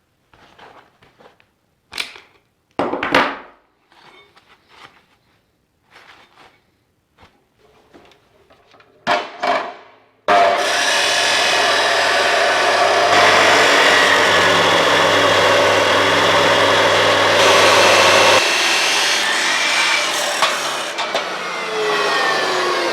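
A few scattered knocks and clanks of metal parts being handled, then about ten seconds in a power tool starts cutting or drilling into steel bracket stock and runs steadily and loudly.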